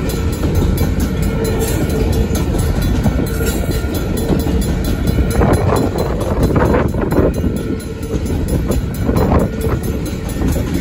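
Freight train cars rolling past at a grade crossing: covered hopper cars' wheels and trucks making a steady heavy rumble on the rails, with louder stretches of wheel noise a little past halfway and again near the end.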